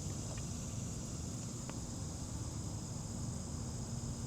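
Steady high-pitched chorus of insects such as crickets, with a low rumble underneath; a faint low hum comes in about three seconds in.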